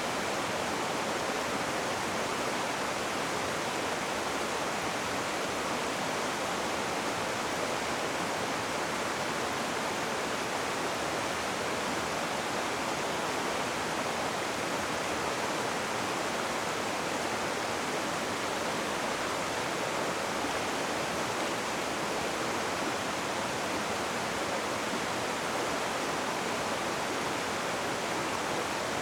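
Rushing water, a river or waterfall, making a steady, even rush of white noise with no breaks or changes.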